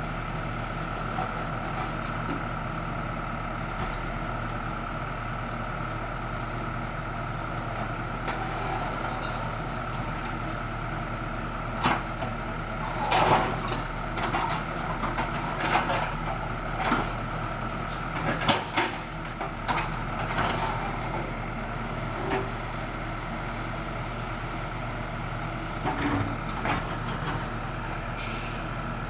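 ACE AX124 backhoe loader's diesel engine running steadily, with a run of clanks and knocks through the middle and a few more near the end.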